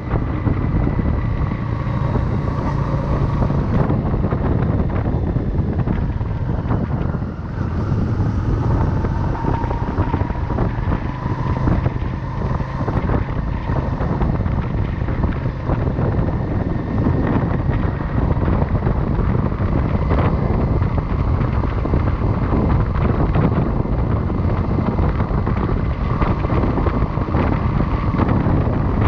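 Wind buffeting a chest-mounted camera's microphone on a moving motorcycle, over the steady sound of the motorcycle's engine, with a faint whine. The sound eases briefly about seven seconds in.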